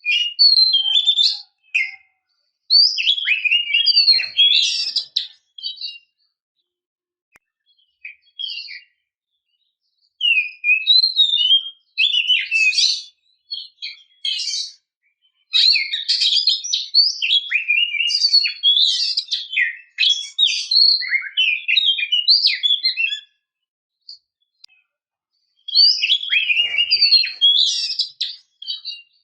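Female oriental magpie-robin singing: bursts of rapid, varied whistles and chirps, in phrases of a few seconds with silent gaps between them. It is a female's call, used to lure a male into singing.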